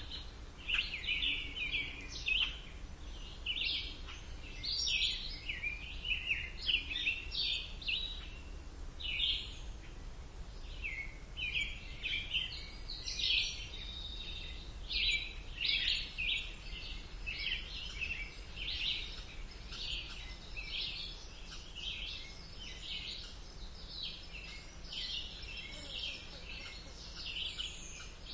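Birds singing, a dense run of short chirps and trills with no pause, over a faint low background rumble.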